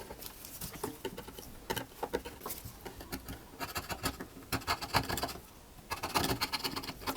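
Metal tool scraping silicone adhesive residue off a phone's frame in a run of short, irregular scratchy strokes.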